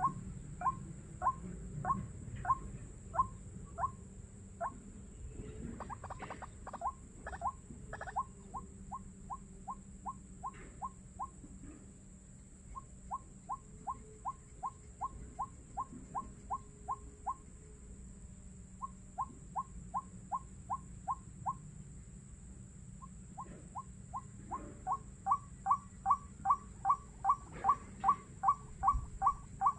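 White-breasted waterhen calls: long series of short, clipped notes repeated about three times a second, broken by brief pauses and growing louder near the end. A steady high-pitched whine runs beneath.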